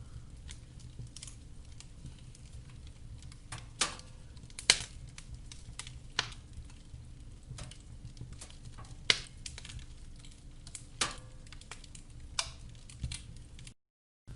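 Wood fire burning in a fireplace: a steady low rumble of flame with scattered sharp crackles and pops at irregular intervals, a few of them much louder than the rest. The sound cuts out completely for a moment near the end.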